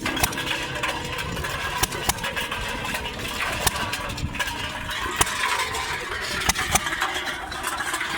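Stover hit-and-miss engine running, with sharp pops at uneven intervals over a steady mechanical din.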